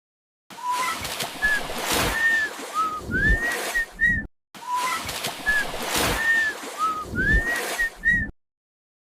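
A bird's short whistled notes, some rising and some falling, over a sloshing water background. The same few-second recording plays twice.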